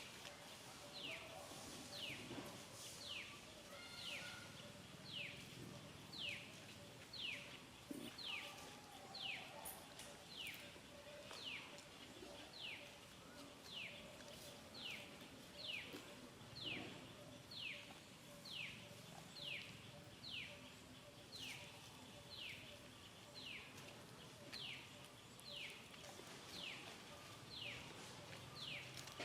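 A bird call repeated steadily about once a second, each a short high whistle sliding downward, over a faint steady hum.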